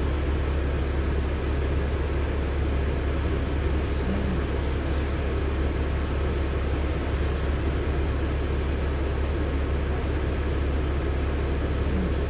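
LiAZ-6213.65 articulated city bus on the move, heard from inside the cabin: a steady low engine drone with even road and tyre noise.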